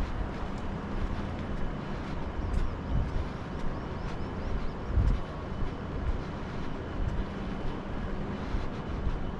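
Steady low rumble of outdoor vehicle noise, with irregular low thuds.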